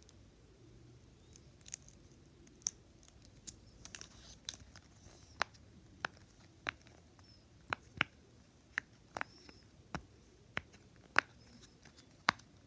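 Sharp, irregular clicks and taps of fidget toys being handled, roughly one a second, growing louder and more frequent from about four seconds in.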